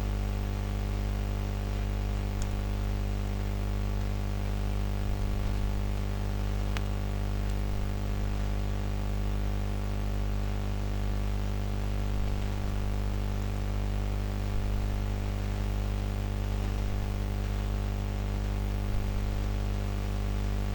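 Steady electrical mains hum with a constant hiss, with a faint tick or two.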